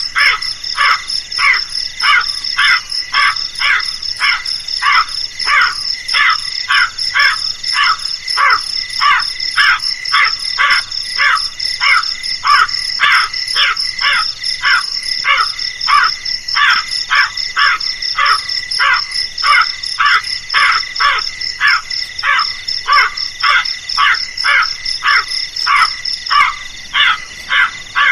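Crows cawing over and over in a rapid, unbroken series of harsh calls, about two to three a second. A steady high-pitched pulsing trill runs underneath and stops near the end.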